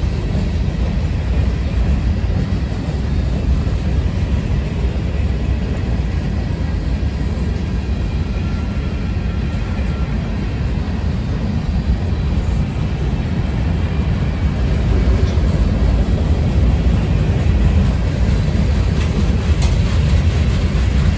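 Freight train cars rolling past: a steady rumble of steel wheels on the rails, growing a little louder after the middle.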